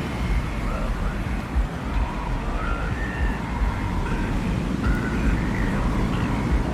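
Desert wind ambience: a deep, steady rumble of wind that swells and eases, with short faint high whistling tones coming and going over it.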